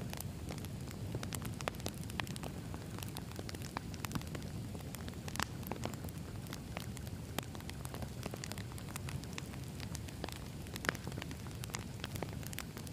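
Campfire of burning wood logs crackling steadily, with scattered sharp pops and snaps over a low rumble of flames.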